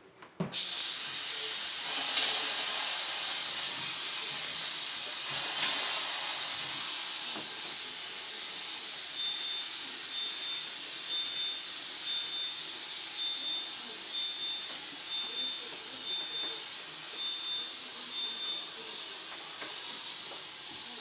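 Handheld steam cleaner blasting a steady jet of steam, a loud high hiss that starts abruptly about half a second in. A faint high beep repeats about once a second through the middle stretch.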